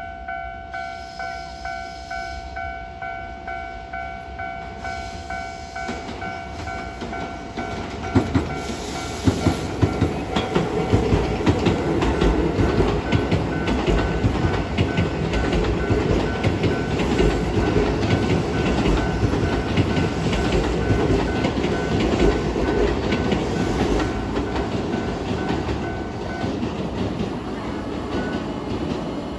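Japanese level-crossing warning bell ringing about twice a second. About eight seconds in, an electric commuter train runs past over the crossing with its wheels clacking on the rail joints, then fades. The bell stops near the end.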